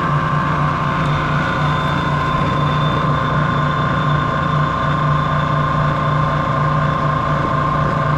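Prodex Model 2JSS high intensity mixer running steadily at low speed: a constant motor hum with a steady whine above it, and a faint higher whine joining about a second in.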